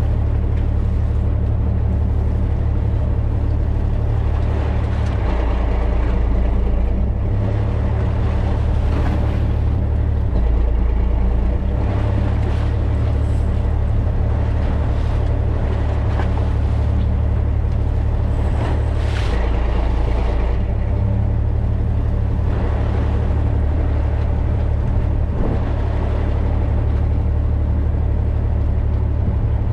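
Fishing boat's engine running with a loud, steady low drone that shifts in pitch a few times, over water and wind noise.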